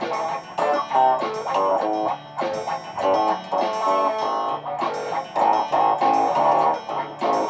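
Electric guitar playing a riff of quick plucked notes over a repeating low bass note, layered as live loops.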